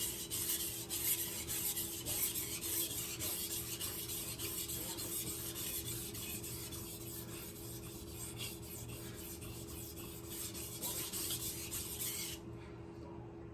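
Knife blade being stroked back and forth across a wet 1000-grit whetstone with slurry on it, a repeated gritty scraping that stops about 12 seconds in.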